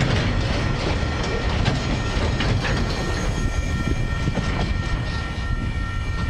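Empty log wagons of a freight train rolling past on steel rails: a steady rumble with irregular clicks from the wheels and a thin, steady high whine over it. The last wagon clears within the first few seconds, and the rolling noise carries on at much the same level afterwards.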